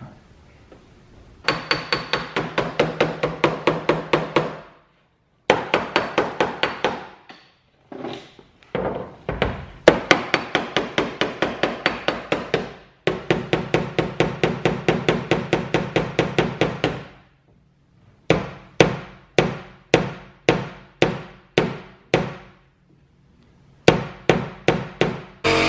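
Hammer striking the dented sheet-metal hood of a car in quick runs of about six blows a second, with short pauses between runs, then slower single blows about two a second near the end; each blow rings.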